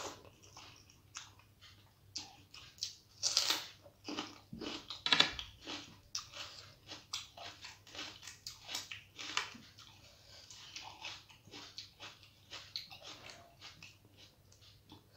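Close-up chewing of a hand-fed mouthful of rice and curry: a run of short mouth clicks and smacks, a few louder ones between about three and five seconds in.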